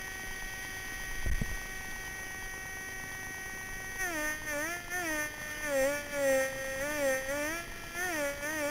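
Metal detector audio tone: a steady held hum for about four seconds, then warbling up and down in pitch over and over as the coil passes over targets. There is a single dull low thump just over a second in.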